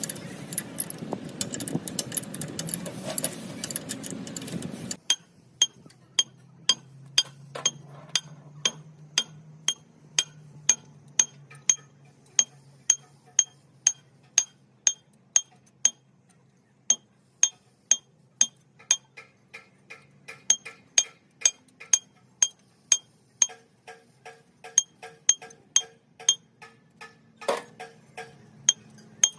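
Hammer blows on steel, struck steadily about one to two times a second, each with a short high metallic ring, as work is done on an excavator pin or shaft. A loud rushing noise fills the first five seconds, then cuts off suddenly.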